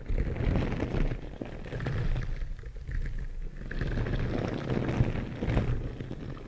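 Close-miked ASMR trigger sounds: a crackling, rustling noise, heaviest in the low range, that swells and fades every second or two.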